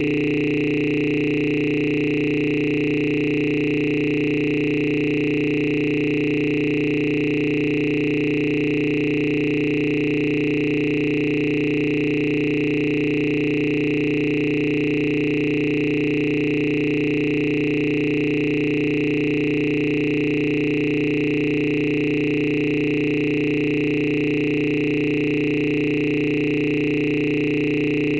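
Steady electronic drone of several held tones, low, middle and high together, unchanging and without a break.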